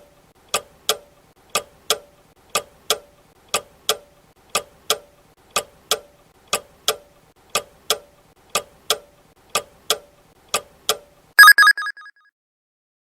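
Countdown timer sound effect: a clock ticking, a tick-tock pair every second, then a short ringing bell near the end as the answer time runs out.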